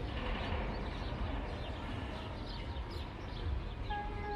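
Small birds chirping repeatedly over a steady low rumble, with a steady pitched tone starting near the end.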